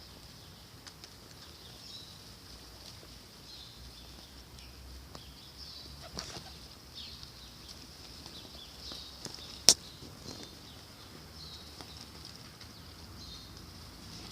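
Small birds calling with short, high chirps and squeaks, with wing flutters; a single sharp click about ten seconds in.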